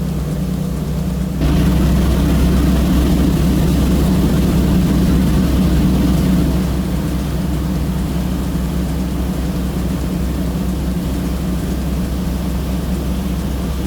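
Passenger catamaran's engines droning steadily under way. A louder rushing noise joins about a second and a half in and eases off about five seconds later.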